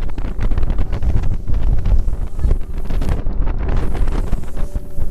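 Wind buffeting the microphone aboard a motorboat under way, a loud, uneven rumble over the boat's engine and water noise.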